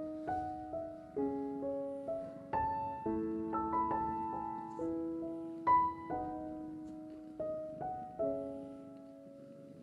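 Background piano music: a gentle melody of single notes and chords, each note struck and fading away. The notes stop near the end.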